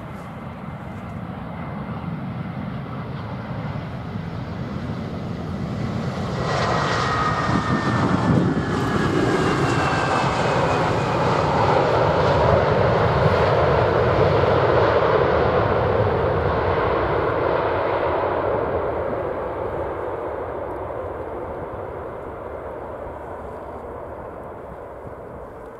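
Fixed-wing aircraft engines passing close by: the roar builds over several seconds, is loudest around the middle and fades away, with a high whine that falls in pitch as the aircraft goes past.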